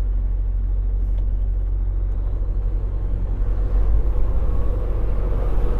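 Semi truck's diesel engine running under way, a steady low rumble heard from inside the cab.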